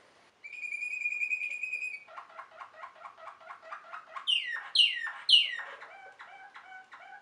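Waterslager (Malinois) canary singing: a held, whistled note for about a second and a half, then a fast run of notes at about five to six a second, three loud falling notes, and a run of short notes near the end.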